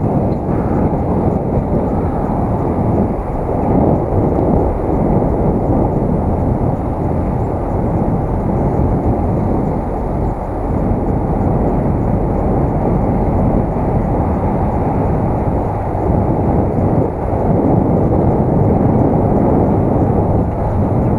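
Steady, loud low rumble of wind and riding noise on an action camera's microphone while cycling.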